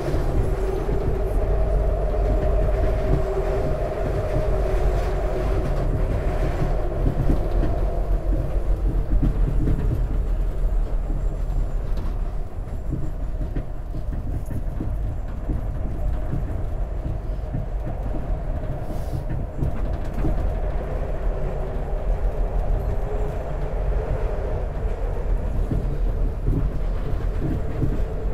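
SEPTA Market-Frankford Line el train running at speed on elevated track, heard from inside the car: a steady rumble of wheels on rail, with a two-note whine that fades about a third of the way in and comes back near the end.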